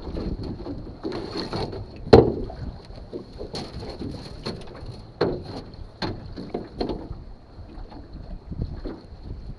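Irregular clanks and knocks of a metal chain being handled and hooked up, the loudest about two seconds in, with wind buffeting the microphone.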